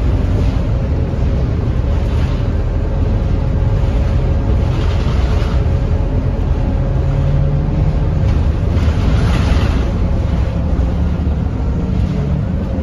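Scania K230UB city bus's diesel engine running on the road: a loud, steady low drone whose tone steps up and down a few times as the bus pulls. Two swells of hissing noise come about five and nine seconds in.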